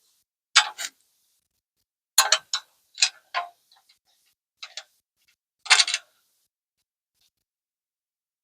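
Small steel bolt, washer and nut clicking and clinking against the bumper bracket as a nut is fumbled onto a bolt, in about five short clusters of clicks that stop about six seconds in.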